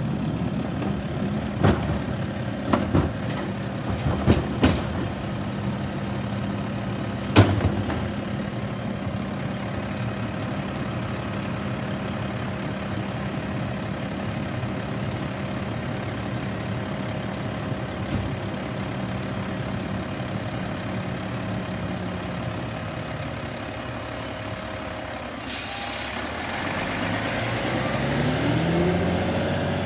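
Garbage truck's diesel engine idling steadily, with several sharp knocks in the first eight seconds. About 25 seconds in the air brakes release with a sudden hiss, and the engine then revs up with a rising pitch as the truck pulls away.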